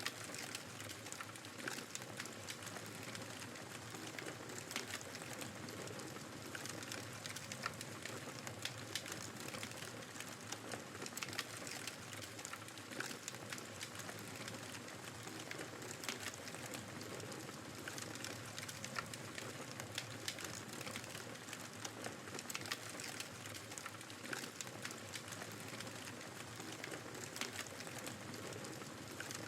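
Wood fire crackling in a fireplace, with frequent small, irregular pops and snaps over a steady hiss of blizzard wind.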